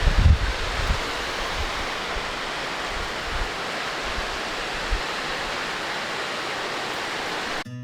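Waterfall rushing steadily, with a few low thumps in the first second. The rushing cuts off suddenly near the end.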